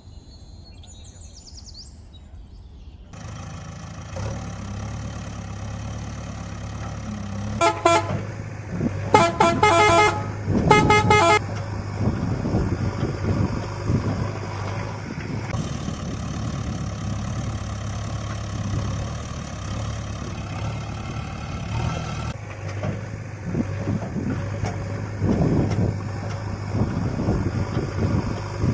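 Heavy vehicle engine running steadily, with a horn honked in three blasts about 8 to 11 seconds in.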